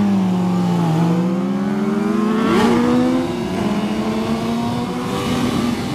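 Sportbike engine under way, its pitch climbing steadily as it pulls up through the revs for about three seconds and then holding level, with a quick blip of revs partway through.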